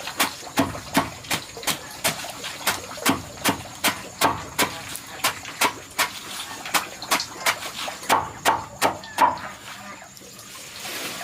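Rhythmic chopping with a blade, about two to three even blows a second, stopping about nine seconds in.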